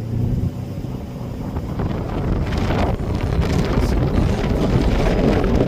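Wind buffeting the microphone: a rumbling noise that grows louder over the few seconds.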